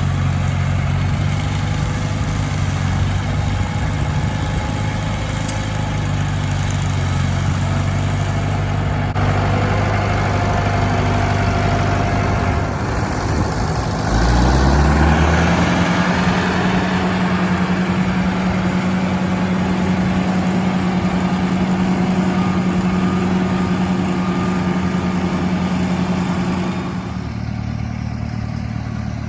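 International Harvester 574 tractor engine running at a steady low speed, then revving up about halfway through and holding at a higher speed before dropping back near the end.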